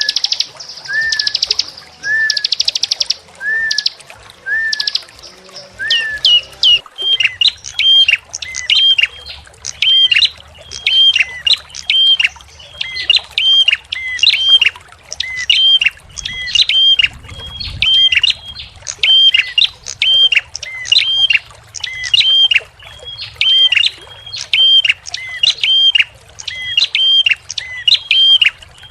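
Recorded small songbirds singing. For about the first seven seconds a bird gives short rising chirps mixed with fast buzzy trills; then a different bird takes over with a sharp, regular call, a high hooked note over a lower one, repeated a little faster than once a second.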